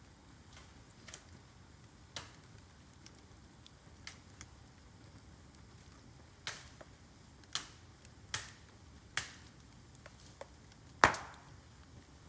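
Bamboo burning in an open fire, crackling with sharp pops: a few small ones, then a string of louder cracks about a second apart from about six seconds in, the loudest near the end.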